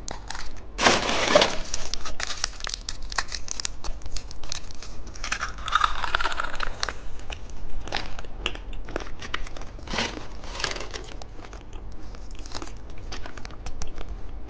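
Plastic candy wrappers crinkling and tearing in the hands, in irregular bursts of rustling, louder about a second in, around the middle and again a few seconds later.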